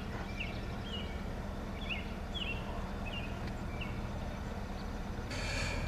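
A small bird chirping over and over in short notes, over a steady low background rumble, with a brief rush of hiss near the end.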